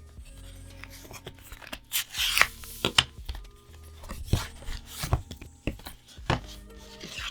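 A Magic: The Gathering booster pack wrapper being torn open by hand: a rip about two seconds in, then scattered crinkles and taps as the pack and cards are handled. Soft background music plays throughout.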